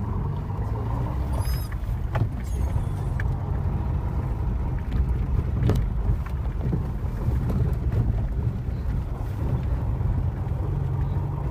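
Moskvich 2140 car's engine running steadily as the car drives along a snowy forest track, with a few sharp knocks and clicks over the drone, the strongest about six seconds in.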